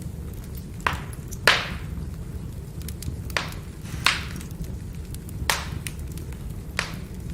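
Firewood burning: a steady low rumble of the fire with sharp pops and cracks from the logs, about six louder ones spread through, the loudest about one and a half seconds in, and fainter crackling between.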